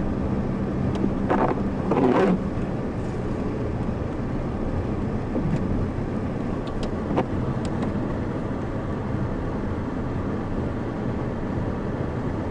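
A car driving on a snowy road, heard from inside the cabin: steady engine hum and road rumble. There are two short louder rushes about two seconds in, and a few faint clicks later.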